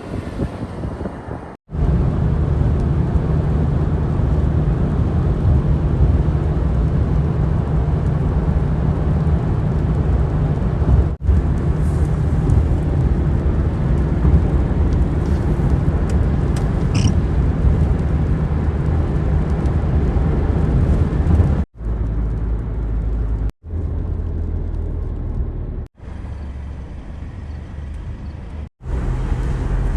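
Steady low rumble of a vehicle driving, broken by several abrupt brief drop-outs.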